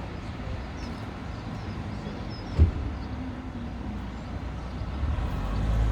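Steady low rumble of outdoor street noise, with one short low thump about two and a half seconds in.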